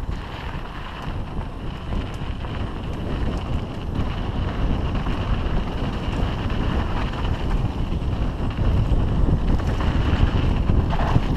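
Wind buffeting the camera microphone on a mountain bike moving downhill at speed, a steady rumbling rush.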